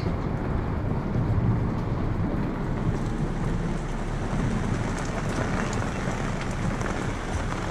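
Steady rain and wind on a sailboat, heard from inside the cabin.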